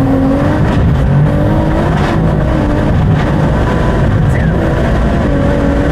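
Big-turbo BMW M140i's turbocharged 3.0-litre straight-six running hard, heard from inside the cabin. Its pitch rises and dips a few times over a steady rush of road and engine noise.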